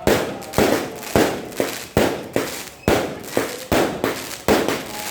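Firecracker rockets going off in rapid succession: about a dozen sharp bangs, roughly two a second, each fading briefly before the next.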